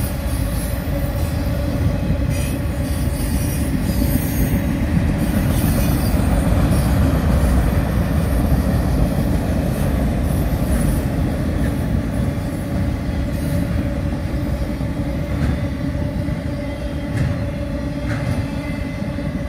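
Freight train of autorack cars rolling past: a steady rumble of steel wheels on the rails with a continuous wheel squeal and scattered clicks from the wheels over the rail joints.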